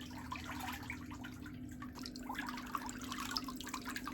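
Water trickling and dripping in small irregular splashes, as when feet are rinsed in a pedicure basin, over a steady low hum.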